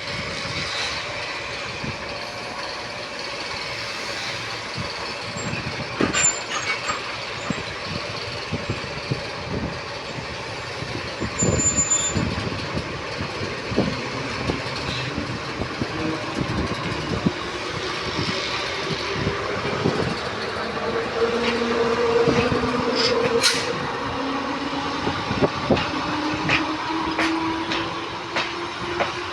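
TU10 narrow-gauge diesel locomotive running with its train: steady engine and running noise with scattered knocks and clicks of wheels on the rails. A droning tone comes in about halfway through and shifts slowly in pitch.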